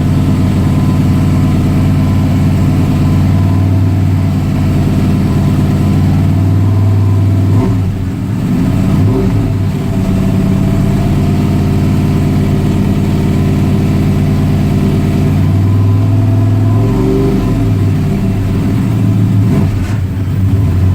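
Car engine idling steadily through its exhaust, blipped up in revs and back down twice. It is running so its ignition timing and exhaust note can be judged by ear.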